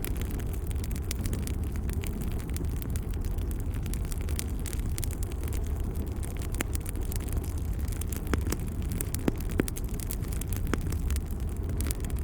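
Wood fire burning: a steady low rumble with scattered sharp crackles and pops, a few louder pops in the second half.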